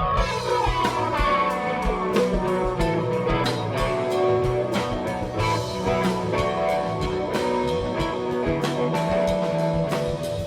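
Instrumental passage of a live blues-rock band: electric guitar playing sustained notes over a steady drum beat and bass, with no singing.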